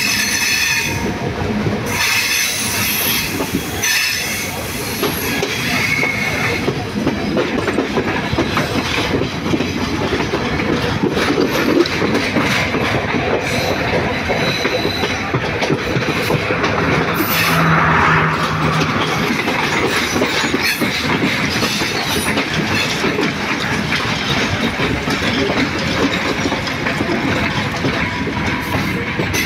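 Running noise of a passenger train heard from an open carriage door: steady wheel-on-rail rumble and clatter over the track joints, with high wheel squeal in the first several seconds.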